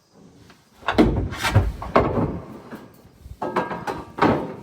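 Heavy metal parts of a combine's concaves clanking and scraping as they are worked in or out: a cluster of knocks and scrapes about a second in, then two more clanks with a short metallic ring near the end.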